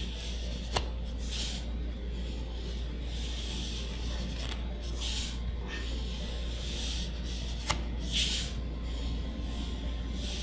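Magic: The Gathering trading cards handled and slid one at a time off a stack: a short papery swish every second or two, with two sharp clicks, over a steady low hum.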